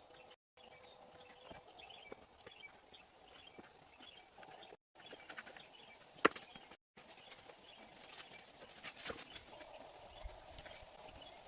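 Faint, scattered light knocks and clicks, with one sharp click about six seconds in; the sound drops out completely for a moment three times.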